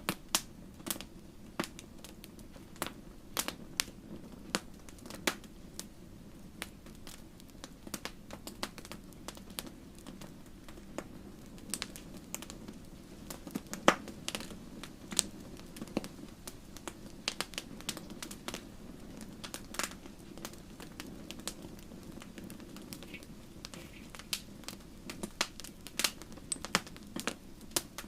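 Wood fire crackling in a fireplace: irregular sharp pops and snaps, one loud pop about halfway through, over a steady low background.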